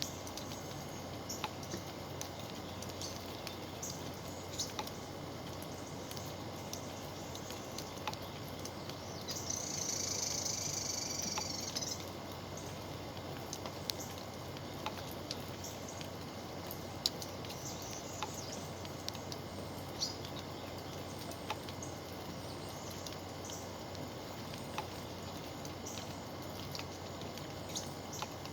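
Outdoor nature ambience: a steady hiss with scattered small ticks. A high, even buzz rises from about nine and a half seconds in and lasts about two seconds.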